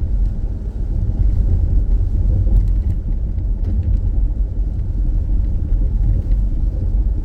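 Steady low rumble of a Dodge Grand Caravan minivan driving, road and engine noise heard from inside the cabin.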